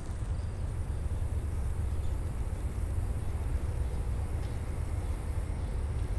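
Distant diesel locomotive approaching across a steel railroad bridge, heard as a steady low rumble.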